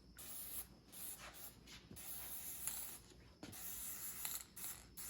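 Paint being sprayed onto a truck's metal, the spray hissing faintly in a series of short bursts that start and stop about once a second.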